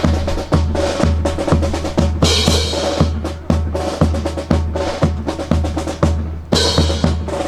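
Marching drum cadence: bass drum beating about twice a second under snare drum rolls and hits, with cymbal crashes twice.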